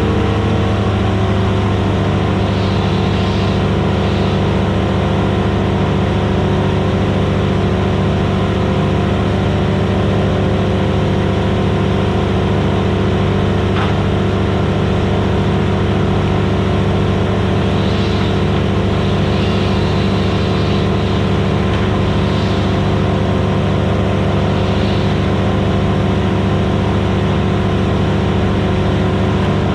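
Vermeer BC1000XL gas wood chipper running steadily at full speed, a loud, even engine drone that holds one pitch throughout, with a faint sharp click about halfway through.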